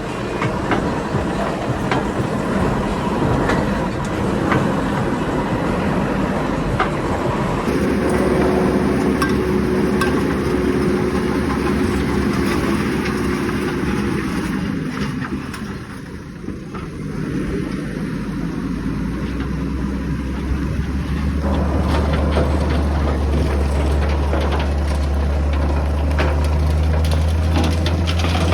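Heavy diesel machinery engine running under load, the sound changing abruptly about eight seconds in, a tone dropping in pitch a few seconds later, and a deep, strong hum building from about two-thirds of the way through.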